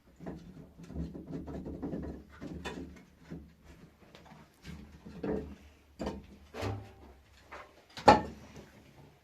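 Irregular knocks and clatters of objects being handled, with one sharp, loud knock about eight seconds in.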